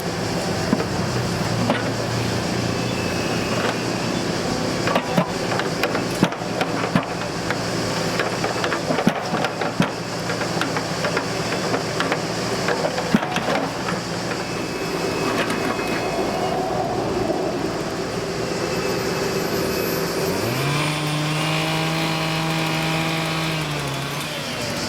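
Colmar excavator's diesel engine running, with many sharp metal clanks and knocks from work on the sleepers and track. About twenty seconds in, the engine revs up, holds for about three seconds and drops back.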